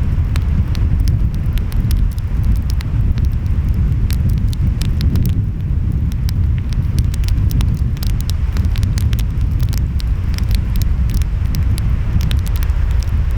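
Wood fire crackling, with many sharp pops and snaps, over a steady low rumble of ocean waves and wind.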